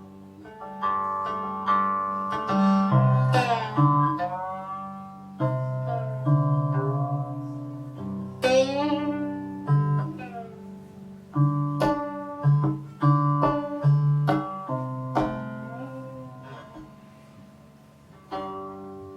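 Solo guqin, the seven-string Chinese zither: single plucked notes that ring and slowly fade, some sliding up or down in pitch, with a quieter, sparser stretch near the end.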